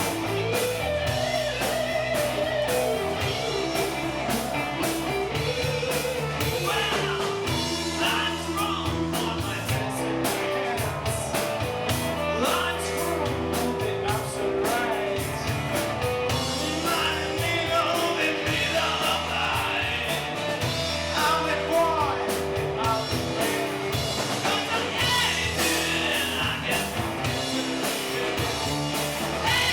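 Rock or blues band music: guitar and a singing voice over a steady beat.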